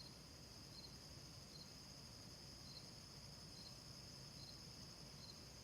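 Faint crickets: a steady high-pitched trill, with a short chirp repeating a little under once a second.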